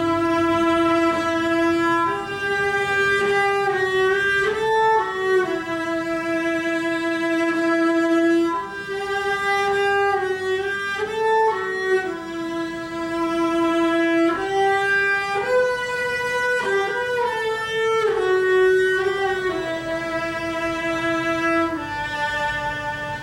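Solo cello playing a slow melody of long held notes in its upper-middle range, sliding between some of them.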